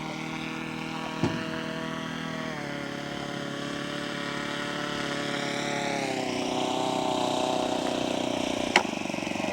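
Radio-controlled model seaplane's engine running in flight, its pitch dropping in steps as it comes closer and louder. There is a single sharp tick near the end.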